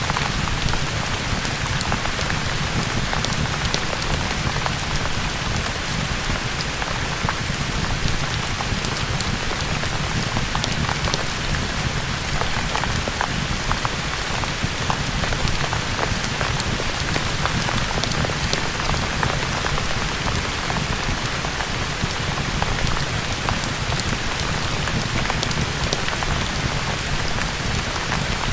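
Steady rain mixed with a crackling fireplace: an even hiss of rain with many scattered sharp crackles.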